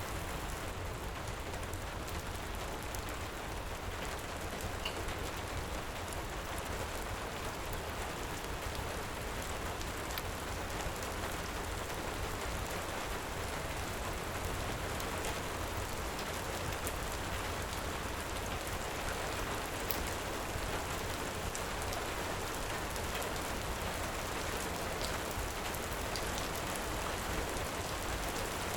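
Heavy rain falling steadily, an even hiss with faint scattered ticks of drops.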